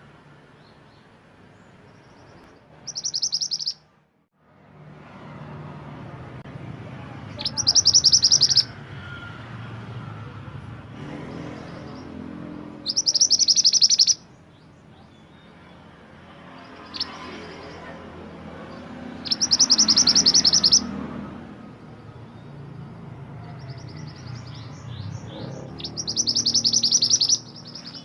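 Mantenan gunung songbird repeating a short, high-pitched song phrase of rapid notes five times, about every five to six seconds, over a low steady background rumble.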